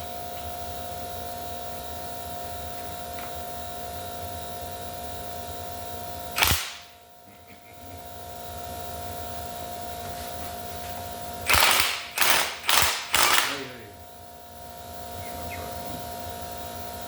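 Steady workshop hum, with one sharp metallic hit about six seconds in and a quick run of four short, loud noisy bursts near the end, from tools working on the exhaust manifold bolts.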